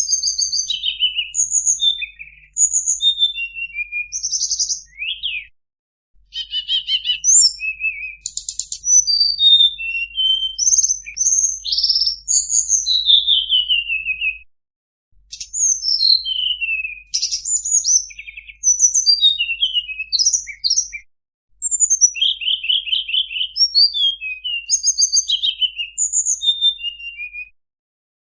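Tledekan (blue flycatcher) song played as a bird-lure recording: fast, varied runs of high whistled notes, slurs and short trills. It comes in phrases of several seconds, broken by short pauses about every six seconds.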